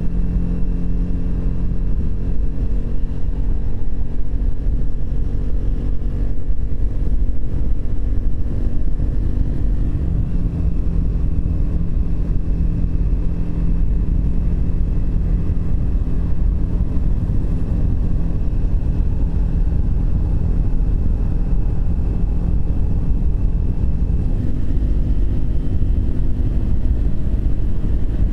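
Triumph Speed 400's single-cylinder engine running steadily while the motorcycle is ridden, over a constant low rumble of wind and road noise. Its pitch shifts a little about ten seconds in, then holds steady again.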